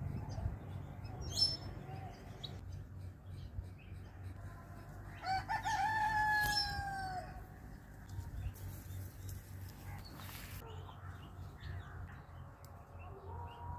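A bird gives one long, drawn-out call about five seconds in that falls in pitch towards its end, with a few short high chirps elsewhere, over a steady low hum.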